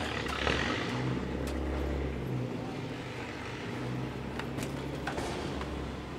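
Classic car engines idling, a low steady hum that swells and eases, with a few light clicks and knocks.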